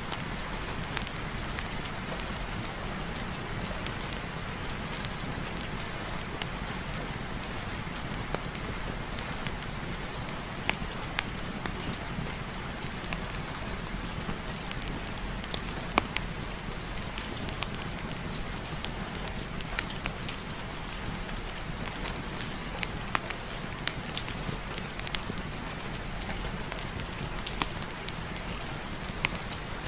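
Steady rain mixed with a crackling fireplace fire: an even hiss with many scattered sharp pops.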